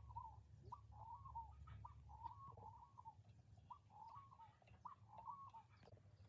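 Faint bird calls: short warbling phrases repeated every second or so, over a low steady background hum.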